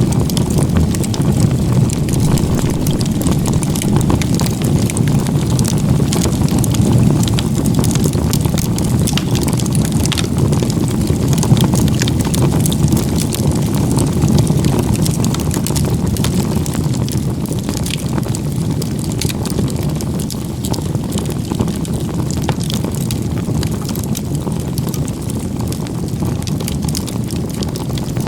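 Firewood stacked log-cabin style (igeta-gumi) burning hard as a bonfire: a steady low rumble of flame with frequent small crackles and pops from the wood throughout.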